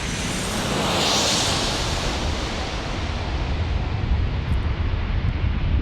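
Jet airliner's engines passing: a rushing noise swells, peaks about a second in, then fades, leaving a steady low rumble.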